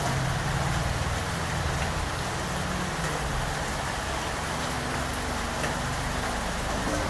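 Steady rain, an even hiss, with a low rumble underneath.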